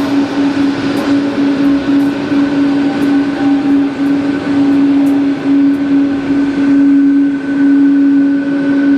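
A vehicle's steady mechanical drone: one constant loud tone over a rushing noise, holding without a break.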